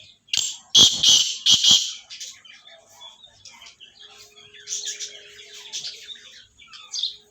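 Birds chirping and chattering, with a few loud harsh bursts in the first two seconds.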